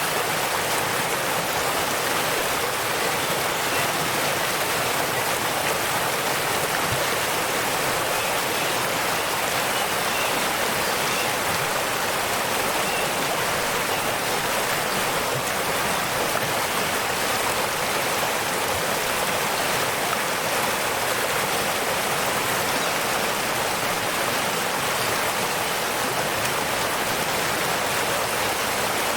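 Waterfall: a steady rush of falling water, more hiss than rumble, unchanging throughout.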